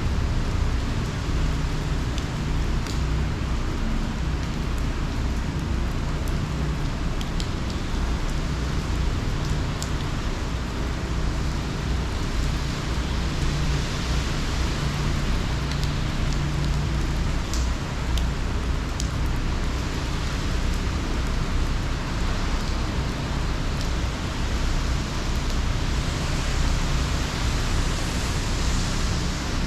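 Hurricane rain and wind: a steady, heavy rush of rain with a low rumble, and a few sharp drop hits now and then.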